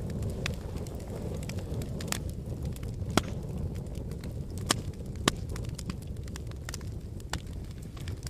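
Fire burning in a fireplace: a steady low rumble of flames with frequent sharp crackles, and a few louder pops around the middle.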